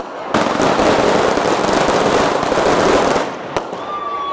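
A string of firecrackers going off in a dense, rapid crackle for about three seconds, starting and stopping abruptly. Near the end a steady whistle-like tone is heard.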